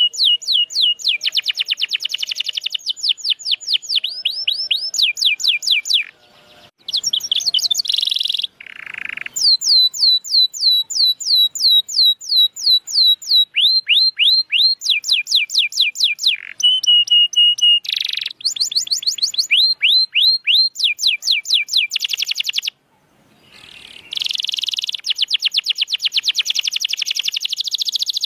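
Domestic canary singing: fast runs of repeated down-slurred notes, shifting from one rolling phrase to the next, with two short pauses, one about a third of the way in and one near the end.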